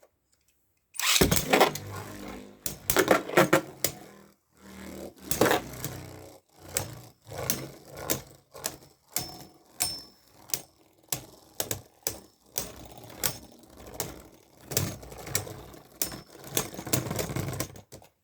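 Two Beyblade Burst spinning tops launched into a plastic stadium about a second in, then clashing and scraping against each other, a long run of sharp plastic hits over a rattling spin. The hits stop near the end.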